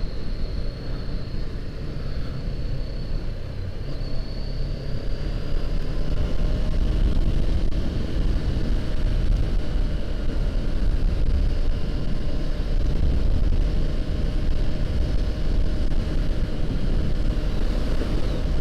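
Honda CBR500R's parallel-twin engine running at a steady road pace, with wind rumbling on the microphone; the engine gets a little louder about six seconds in.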